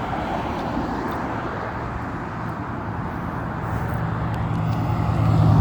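Road traffic: a steady rush of passing vehicles. A low engine drone grows louder in the second half as a vehicle approaches.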